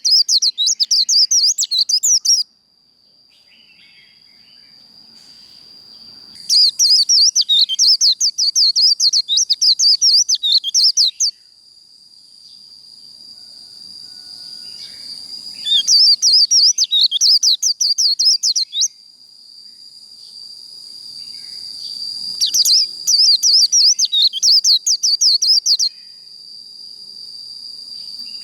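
White-eye (vành khuyên) singing its fast, high, chattering 'líu' warble in four bouts of three to five seconds each. Between the bouts a steady high whine grows louder.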